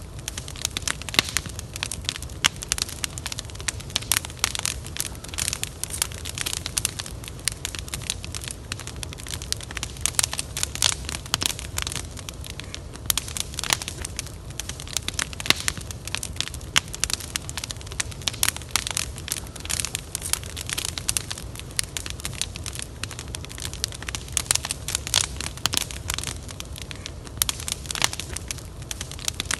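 Wood fire burning, with dense, irregular crackles and sharp pops over a steady low rumble.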